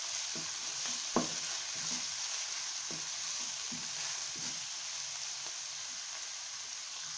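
Chopped fenugreek leaves and onion sizzling in hot oil in a nonstick pan, stirred with a wooden spatula that scrapes and knocks against the pan. One sharper knock comes about a second in.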